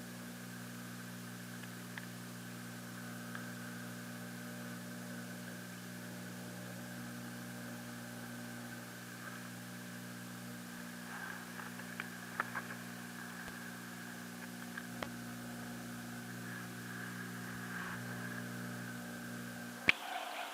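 Aquarium pump motor running with a steady electrical hum and a few faint clicks, cutting off with a sharp click near the end.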